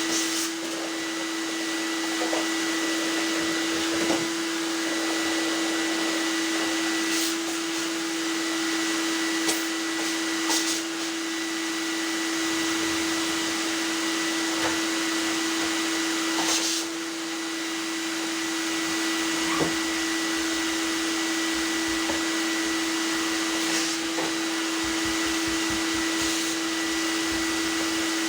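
Whirlpool DDLX 80110 tumble dryer running: a steady motor and fan hum with a strong constant tone, and a few light knocks now and then.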